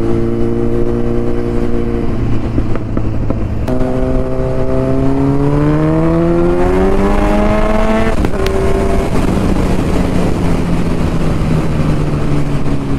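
Kawasaki Z900's inline-four engine through an Akrapovic titanium full-system exhaust while the bike is ridden. The engine holds a steady note, steps up in pitch a little under four seconds in and rises steadily for about four seconds as it accelerates. It then drops sharply at a gear change and runs steady again.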